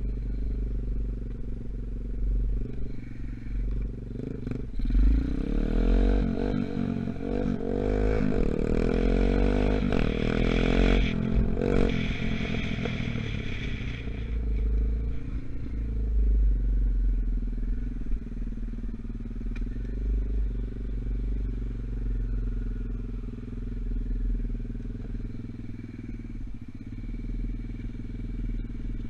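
125cc Gunshot dirt bike engine running, its engine still being run in. It revs up and down between about five and twelve seconds in, then settles back to a steady lower speed.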